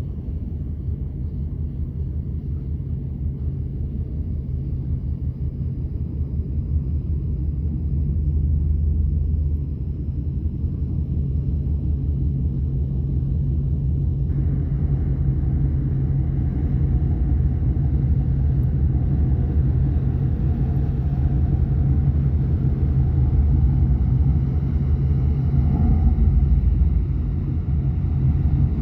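Engines of the high-speed passenger boat Big Earth No. 2 running as it comes into port: a steady low rumble that slowly grows louder, with a fainter rushing hiss joining about halfway through.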